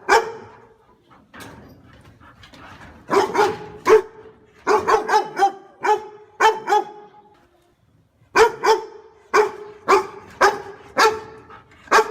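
A dog barking loudly and repeatedly in quick runs of several barks, with a brief pause about two-thirds of the way through.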